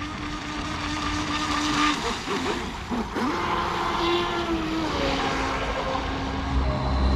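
Brushless electric motor of a Pro Boat Blackjack 24 RC catamaran whining steadily over water and wind noise. Its pitch wavers and dips a couple of seconds in, then settles a little lower. Music comes in near the end.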